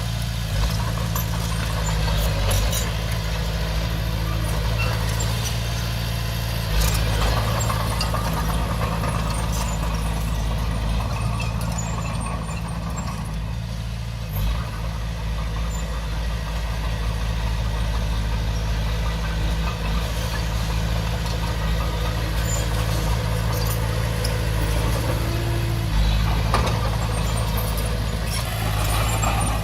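Diesel engine of a small Komatsu D20P bulldozer running steadily, with a few short metallic clanks.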